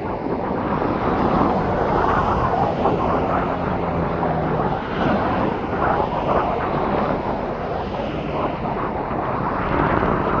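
Airplane engine noise from aircraft at the airfield, mixed with strong wind gusting on the microphone in a heavy crosswind.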